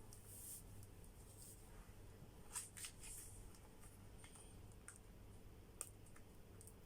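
Near silence: room tone with a low hum and a few faint clicks and rustles.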